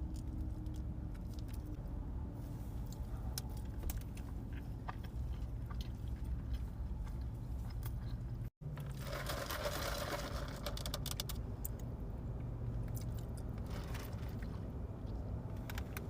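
Close-up eating sounds: a person chewing and crunching food, with small clicks and crackles, over a steady low hum. There is a brief break of total silence about halfway through.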